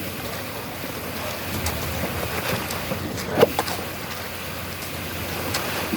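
Steady noise of a truck-mounted concrete pump running while wet concrete pours onto a floor slab, with one short sharp knock about three and a half seconds in.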